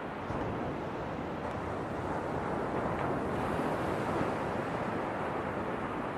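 Ocean waves: a steady rush of surf that swells and grows brighter about halfway through, then eases back.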